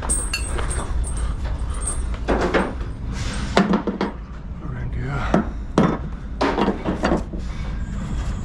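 Indistinct speech that is not made out as words, in several short stretches, with a few knocks and clatters over a steady low rumble.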